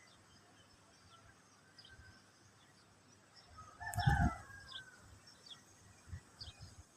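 A rooster crows once, about four seconds in, over faint chirps of small birds. Low rumbling bumps on the microphone come with and after the crow.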